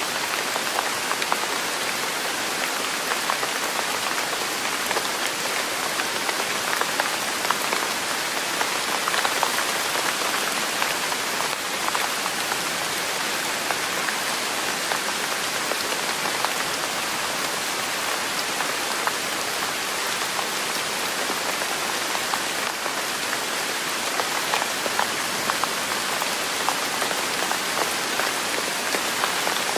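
Steady rain falling on a surface: a dense, even hiss with many small drop taps scattered through it.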